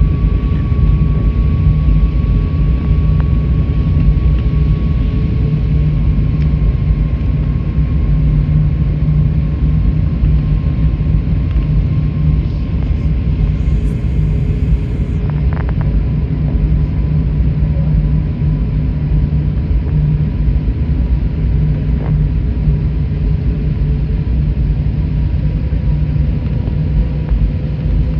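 Airflow and engine noise inside an Airbus A321neo cabin in flight: a loud, steady low rumble with faint steady engine tones above it. A brief faint hiss and a few light clicks come about halfway through.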